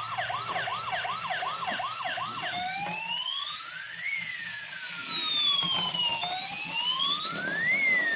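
Battery-powered toy ambulance's electronic siren: a fast warble of about three cycles a second, switching about two and a half seconds in to a slow wail that rises and falls over several seconds.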